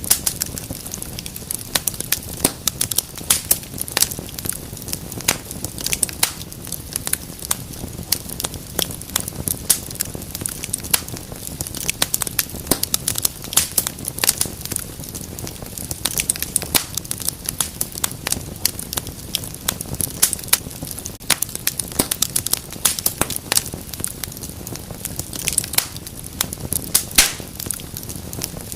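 Wood fire burning in a fireplace: dense, irregular crackling and popping, several sharp snaps a second, over a steady low rumble of the flames.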